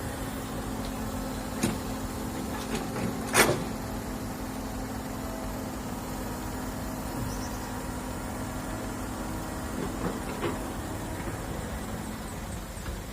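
Excavator's diesel engine running steadily, with a few sharp knocks, the loudest about three and a half seconds in.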